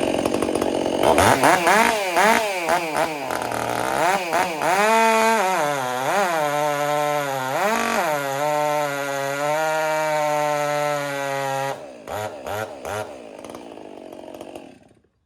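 Stihl MS 400 C chainsaw with an Egan Straight Shot exhaust running at high revs in a cut, its pitch sagging and recovering under load before holding fairly steady. Near the end come a few quick throttle blips, then it drops back to idle. The owner feels it has lost some torque with this exhaust and a much bigger bar.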